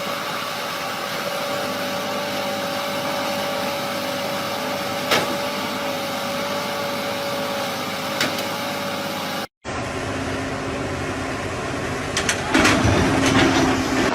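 Steady vehicle running noise with a constant whine and two brief clicks; it cuts off abruptly about nine and a half seconds in, giving way to another steady hum that grows louder and busier near the end.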